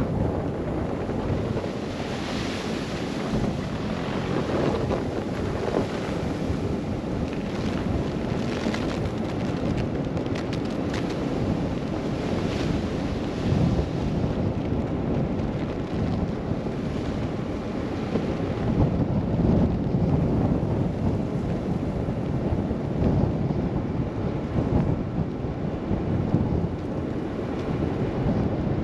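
Wind rushing and buffeting the microphone in a snow blizzard, over the low steady rumble of a car driving along a snowy road.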